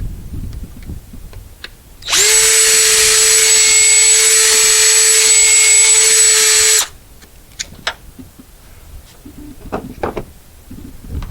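Power drill running at a steady speed for about five seconds, starting about two seconds in and cutting off sharply, followed by a few light clicks.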